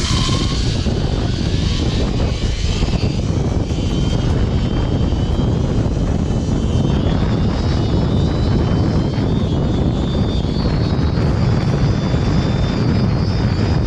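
Zipline trolley running along a steel cable with a faint high whine, under a steady heavy rush of wind on the microphone.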